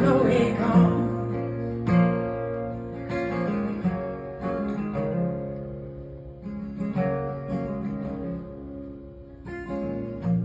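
Acoustic guitar strumming chords, about one strum a second, each chord ringing on.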